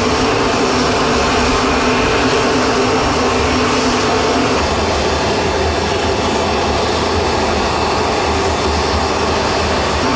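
Jet aircraft engines running steadily: a constant rushing noise with a steady hum.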